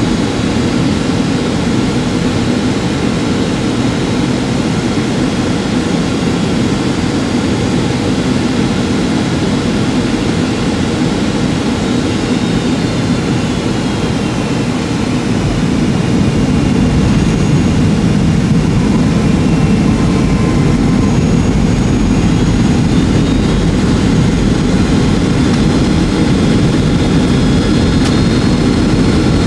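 Boeing 757-200 jet engines and airflow heard inside the cabin in flight: a steady, loud, low rumble with a faint high whine that slides down in pitch about halfway through. The noise grows slightly louder just past the middle.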